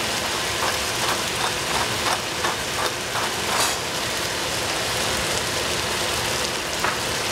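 Sliced potato and celery sizzling in oil in a pot, a steady hiss. A pepper mill is twisted over the pan, giving a run of about nine quick grinding clicks between about one and four seconds in, and one more click near the end.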